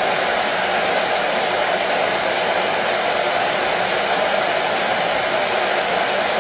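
Washing machine running, a steady, even noise that does not change, strongest in the middle of the range.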